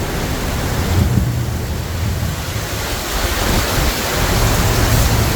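Heavy downpour of monsoon rain, a dense steady hiss with a low rumble underneath.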